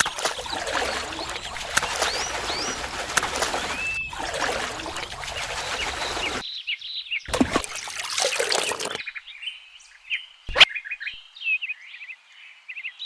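Water running or pouring with birds chirping over it; the water sound cuts off abruptly at about six seconds and returns briefly. Then bird chirps carry on alone, with one sharp click.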